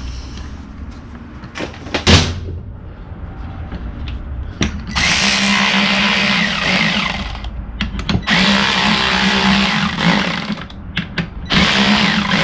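A hand-held power drill runs in three bursts, the first two a couple of seconds each and the last shorter, with a sharp knock a couple of seconds before the first.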